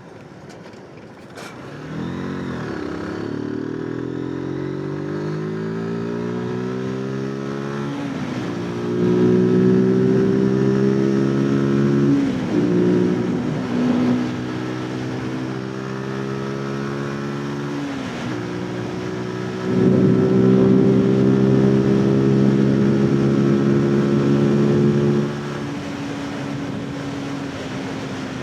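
Zontes 125 motorcycle's single-cylinder engine under way. It pulls away a couple of seconds in, rising in pitch, then drops back at gear changes and pulls again, with two louder stretches of harder throttle before easing off near the end.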